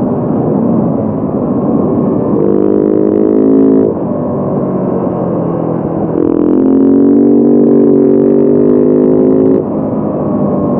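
Motorcycle engine running under way. A steady drone is held at constant revs from about two seconds in to nearly four, then falls away as the throttle closes. It rises again about six seconds in and holds until shortly before the end, when it drops off once more.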